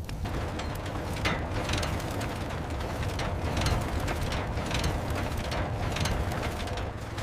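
Mechanical ratcheting: a run of irregular metallic clicks over a steady low rumble.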